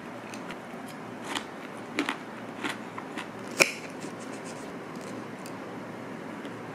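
A few light clicks and taps over a steady hiss, the sharpest about three and a half seconds in.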